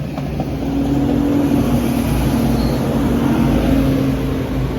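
Class 197 diesel multiple unit arriving, its underfloor diesel engines giving a steady low drone with a few held tones. It grows louder over about the first second, then holds steady.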